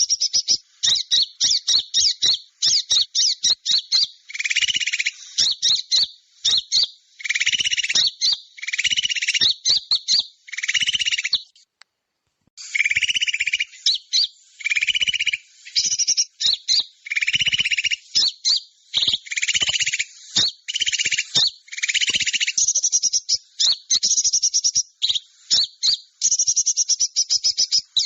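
Bird-lure recording of small songbirds calling: rapid high chips and fast trills, broken by recurring buzzy lower phrases about a second long, with a brief silence about twelve seconds in.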